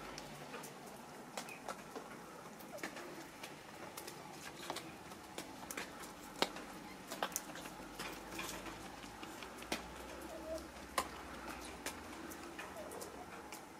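Soft cooing of a bird, with many scattered sharp ticks.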